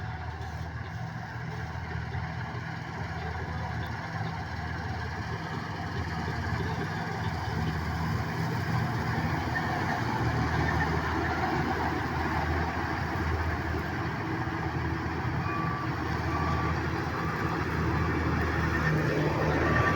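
Diesel engine of heavy farm machinery running steadily and growing gradually louder as it comes closer. A few short high beeps sound near the end.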